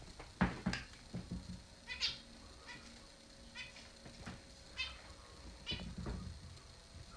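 Pet finches (amadins) giving short, repeated chirping calls, about one a second, with a few soft knocks in the first second.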